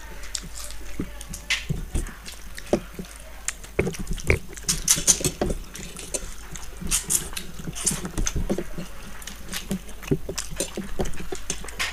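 Close-miked eating sounds: people chewing and smacking their lips as they eat fish head curry and rice by hand, with many irregular wet clicks and smacks.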